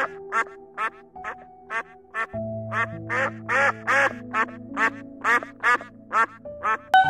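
An animal calling in a rapid series of short, repeated calls, about three a second, over gentle instrumental background music.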